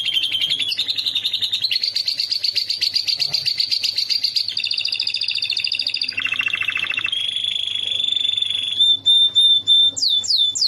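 Domestic canary singing without a break: a string of fast, high trills that change to a new phrase every second or two, then a run of quick descending whistles near the end. The song is said to be filled with phrases copied from lovebirds.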